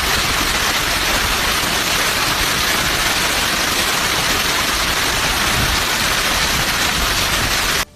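Heavy rain pouring down as a loud, steady, dense hiss that cuts off abruptly near the end.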